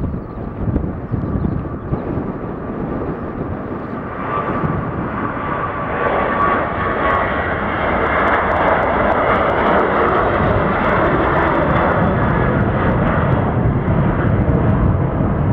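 Boeing 737 jet engines running at high power, growing louder from about four to six seconds in and then holding loud and steady.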